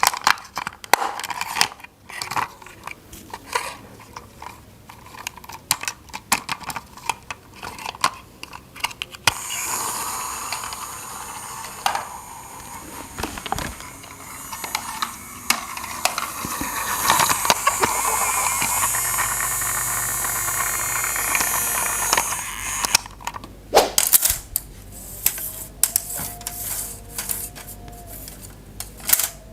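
Hard plastic toy parts clicking and clattering as they are handled and fitted together, with a long stretch of dense rustling in the middle.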